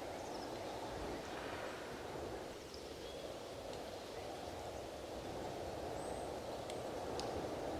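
Strong wind blowing in gusts, swelling and easing, with a few faint high chirps and two small clicks near the end.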